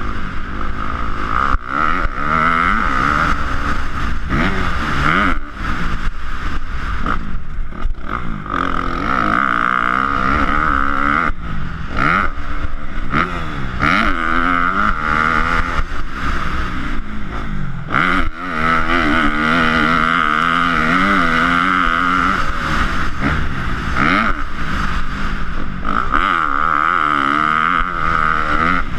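Motocross dirt bike engines revving up and down again and again, the pitch rising and falling, over a steady high-pitched tone.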